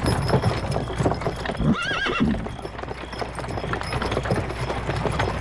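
Horse hooves clip-clopping at a steady walk, with a short wavering whinny about two seconds in.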